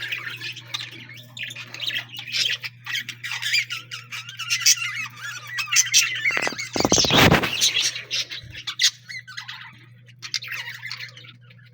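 Many caged ornamental birds squawking and chattering at once, with a louder rustling burst a little past the middle. A steady low hum runs underneath.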